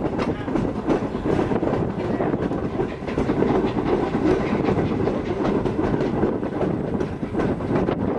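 Steam-hauled excursion train rolling along the track at a steady pace, its wheels clicking over the rail joints under a constant rumble.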